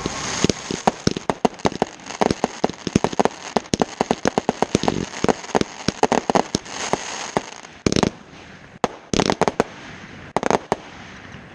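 Fireworks going off: a rapid, dense string of sharp bangs and crackles that thins after about seven seconds to a few short clusters of reports.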